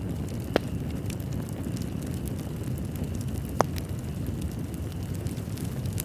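Wood fire in a fireplace burning with a steady low rumble and light crackling, with two sharper pops about half a second and three and a half seconds in.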